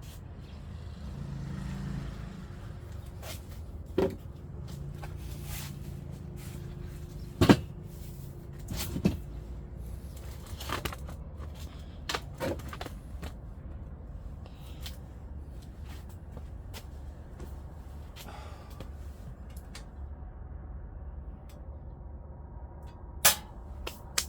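Scattered knocks and clanks, five or six in all, the loudest a little after seven seconds and near the end, over a steady low hum, from work at a wood-burning stove.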